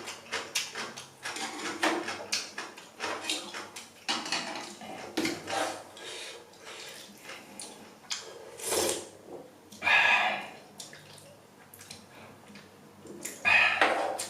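Ramen noodles being slurped and chewed: a run of wet mouth smacks and clicks, with three louder slurps.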